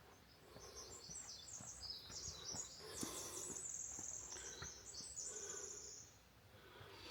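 A small songbird singing one long, rapid, high-pitched tumbling song that lasts about five seconds, ending about six seconds in.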